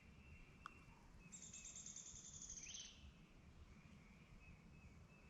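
Quiet woods: a high-pitched trill of about a second and a half starts just over a second in, ending in a short rising note, over faint distant birdsong.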